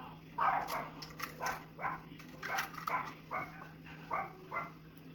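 A small dog barking and yapping repeatedly, about two to three short barks a second.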